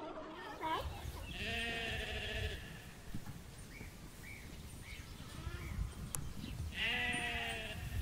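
Sheep bleating in a barn: two long, wavering bleats about five seconds apart, with fainter short calls in between.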